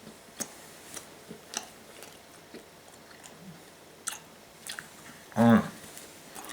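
Mouth-full chewing of a large wad of bubble gum: irregular wet smacks and clicks. There is a short hummed vocal sound about five and a half seconds in.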